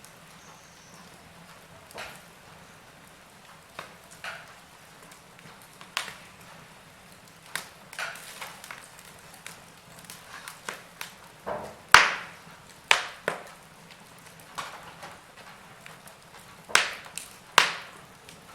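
Wood fire crackling: irregular sharp pops and snaps over a faint steady hiss, with the loudest pop about two-thirds of the way in and a few more near the end.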